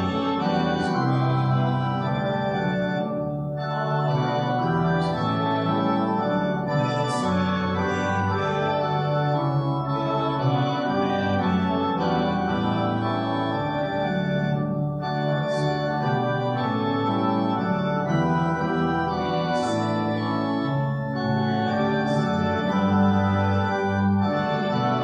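Church organ playing a hymn in slow, sustained full chords, phrase by phrase, with a brief break about every five or six seconds.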